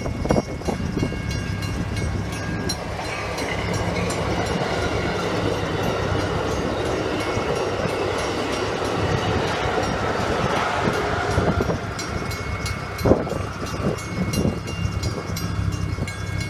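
A train passing: a continuous rush of rail cars rolling by, which swells through the middle and eases off near the end, over a steady low hum.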